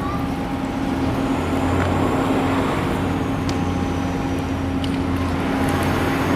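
Steady low engine drone with a constant hum, a deeper hum joining about a second in.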